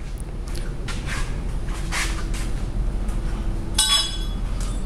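Light handling knocks and one bright, ringing metallic clink just under four seconds in, as something is handled and set down, over a steady low hum.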